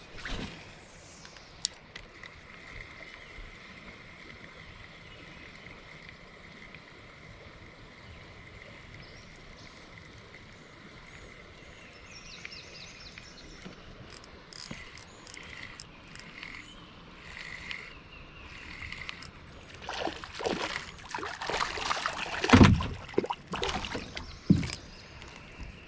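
Creek water running steadily around a kayak, with a run of louder knocks and splashes about twenty seconds in.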